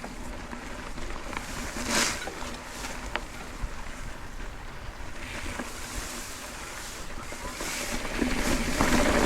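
Mountain bike riding on a dirt trail: wind rushing over the camera microphone and tyres rolling, with a few sharp clicks and rattles. It gets louder near the end.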